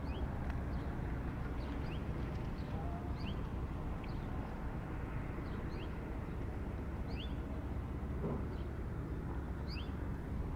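A small bird giving short rising chirps, often two close together, every second or two, over a steady low outdoor rumble.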